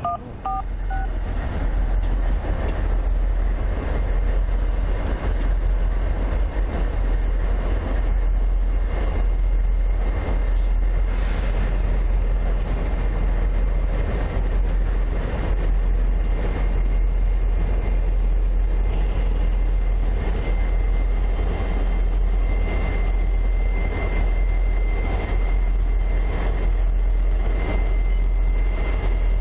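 Diesel freight train on the move: a loud, steady low rumble with a rushing noise over it, and a faint high steady tone joining in from about twenty seconds in.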